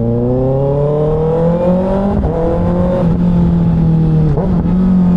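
Kawasaki ZX6R's inline-four engine accelerating, its pitch climbing for about two seconds, then a gear change and steadier running, with a brief dip in pitch near the end.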